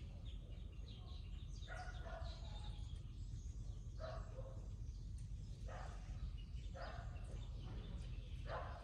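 A distant dog barking about five times, a second or so apart, over bird chirping and a steady low background rumble.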